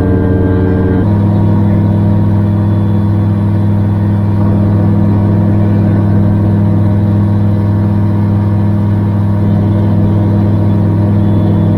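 Gyrocopter engine and propeller running steadily in flight, a loud, even drone whose tone shifts abruptly about a second in.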